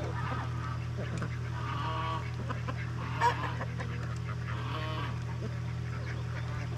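Farm poultry calling: several faint pitched calls from a mixed flock over a steady low hum.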